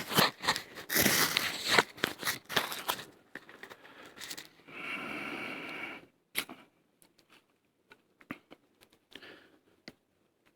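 Ferrocerium rod scraped hard with a striker in quick rasping strokes for about three seconds, then one longer hissing stroke about five seconds in, followed by a few small clicks: repeated attempts to throw sparks into birch-bark tinder.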